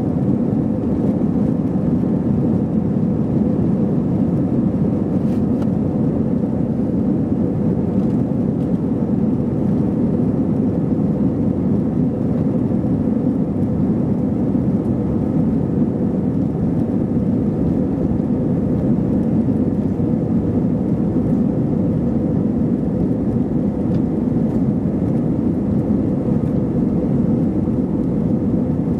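Steady cabin noise inside an Airbus A321-211 airliner: the even drone of its CFM56 jet engines and the airflow, with a faint hum on top.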